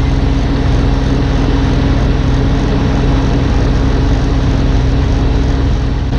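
Gas snowblower engine running steadily at working speed, with the whir and rush of snow being thrown through the chute.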